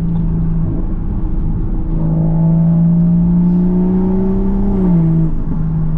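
Toyota MK5 Supra's big-turbo B58 inline-six running at part throttle. The engine note holds steady, climbs slowly from about two seconds in, then the revs fall sharply about five seconds in.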